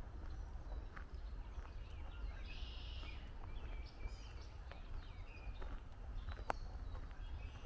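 Several songbirds chirping and trilling in woodland, busiest about two and a half seconds in, over a steady low rumble. Footsteps on the trail tap through it, with one sharp click about six and a half seconds in.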